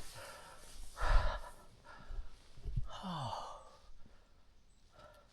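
A person breathing heavily close to the microphone: a few hard exhales, with a voiced sigh that drops in pitch about three seconds in.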